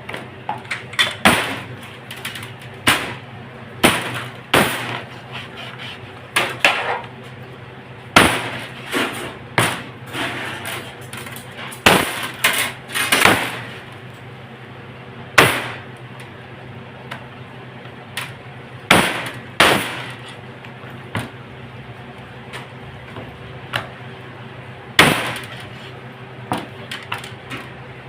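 Irregular sharp knocks and clatters of hard objects, some in quick runs of two or three, over a steady low hum.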